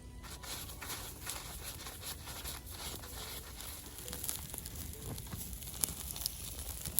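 Chopped onion frying in rendered bacon fat in a cooking pot over a campfire: a steady sizzle with scattered crackles.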